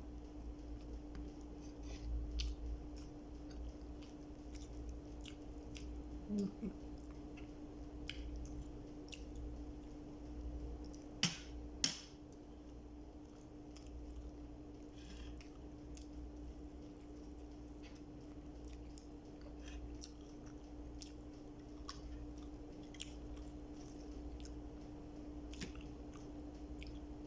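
Close-miked chewing and biting of food, with many small wet mouth clicks and two sharper clicks about eleven seconds in.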